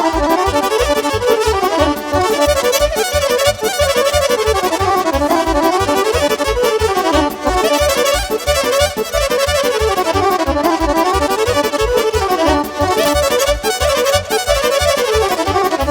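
Instrumental break of live Romanian folk party music: a lead instrument plays fast rising and falling melodic runs over a steady, even bass beat, with no singing.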